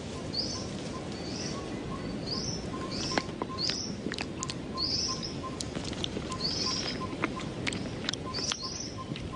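A bird chirping over and over, short high calls that rise and fall, about one a second, with scattered sharp clicks and a steady outdoor background.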